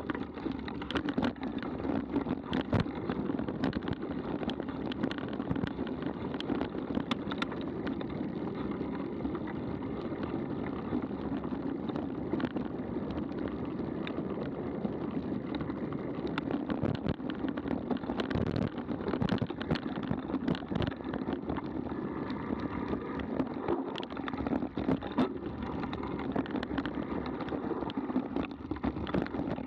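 Mountain bike riding fast along a dirt trail: steady tyre and drivetrain rumble, with frequent sharp knocks and rattles as the bike goes over rough ground.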